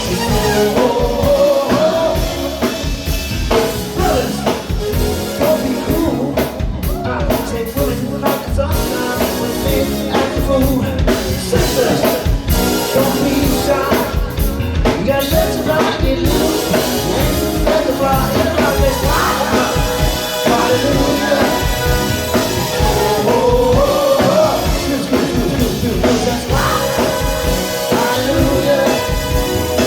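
Live funk band playing with drum kit and a singer, a steady dance beat throughout.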